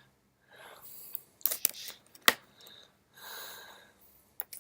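Faint clicks and taps of handling at close range, with a sharp click a little past two seconds in, and a couple of soft breaths.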